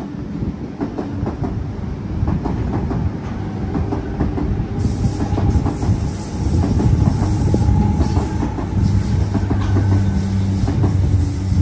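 Double-deck electric suburban trains passing close by: their wheels click rapidly over rail joints over a steady low hum. A faint whine rises in the middle and rushing hiss grows from about halfway.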